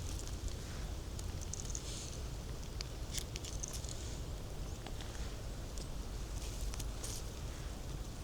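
Footsteps on the forest floor: leaf litter and small twigs crackling and rustling underfoot in short, irregular bursts, over a steady low rumble.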